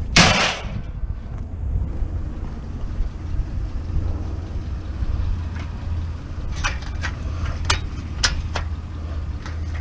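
Steady low rumble of a vehicle engine running, with a loud burst of noise at the very start and a run of sharp knocks about seven to eight and a half seconds in.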